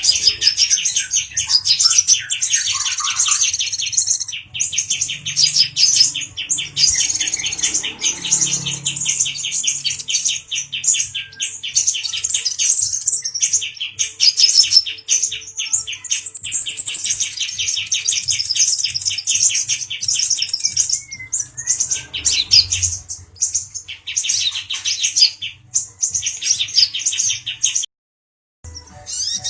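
Male sunbird singing in long runs of very fast, high-pitched chattering trills, broken by short pauses, the sound of an excited bird.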